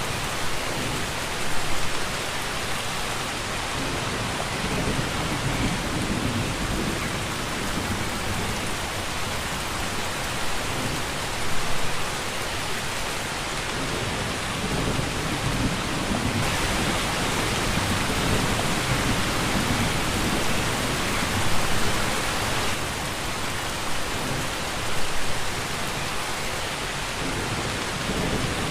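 Steady rain falling, a heavier stretch for several seconds midway, with a few brief louder swells.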